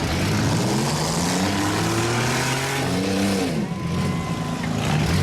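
Demolition derby car engines running loud in the arena, one revving up in pitch over a couple of seconds and then dropping back. A short steady high note sounds about four seconds in.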